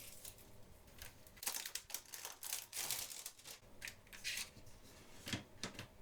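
Plastic shrink-wrap crinkling and tearing as it is pulled off a CD case, in irregular crackles and rustles.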